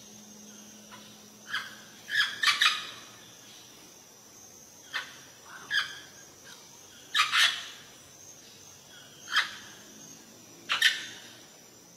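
Green Amazon parrot giving short, loud calls every second or two, several of them in quick pairs, over a faint steady background.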